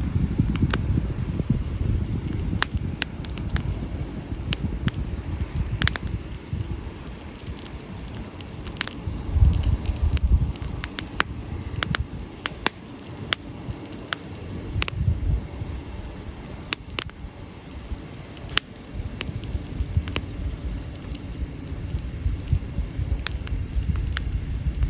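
Wood campfire burning, with irregular sharp crackles and pops over a low rumble.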